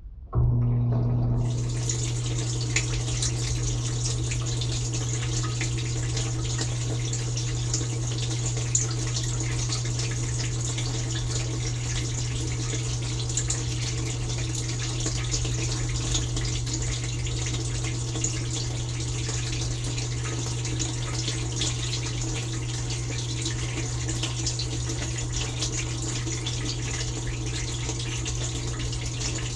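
Dishwasher wash pump starting up about half a second in, then running with a steady low hum while water sprays continuously over the dishes, heard from inside the tub.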